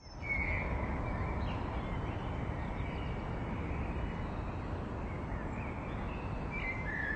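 Birds chirping over a steady outdoor background hiss, with a cluster of chirps near the end.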